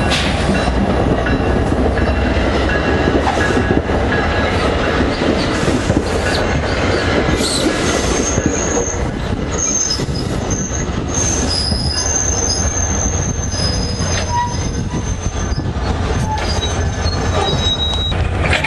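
Commuter train rolling past on the rails with a steady rumble. From about eight seconds in, high-pitched wheel squeals come and go for several seconds.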